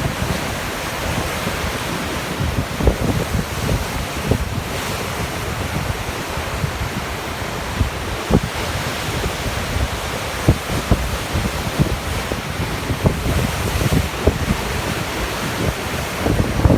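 Rough sea waves rushing and breaking, with strong wind buffeting the microphone in frequent low thumps.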